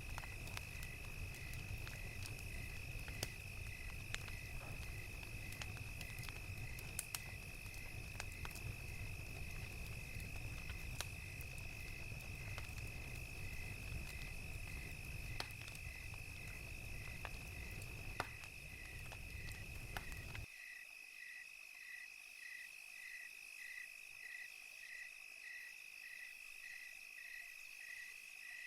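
Crackling fire with crickets: a steady high insect trill under regular chirps, with sharp pops from the fire. The fire cuts off suddenly about two-thirds of the way through, leaving only the crickets.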